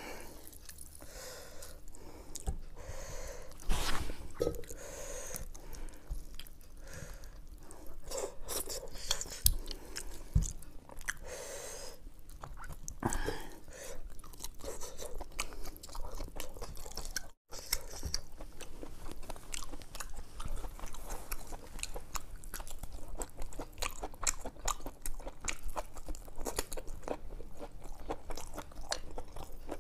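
Close-miked eating of curried mutton head by hand: steady wet chewing and crunching with many small clicks and crackles. A few sharper, louder crunches come about 4 s in and again around 10 s.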